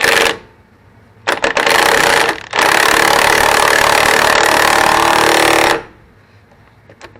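Impact wrench running on a control arm bolt's nut: a short burst, a few stuttering bursts, then one steady run of about three seconds as the nut is driven home.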